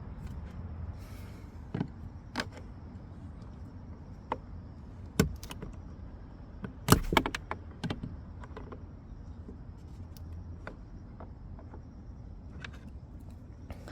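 Scattered clicks and knocks of parts and tools being handled during hand work on a car's dashboard air-conditioning parts. The loudest cluster comes about seven seconds in, over a low steady rumble.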